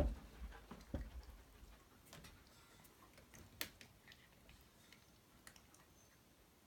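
Tiny toy poodle gnawing at a gate: scattered small clicks and taps of teeth on the gate, with two dull knocks in the first second and a sharper click about three and a half seconds in.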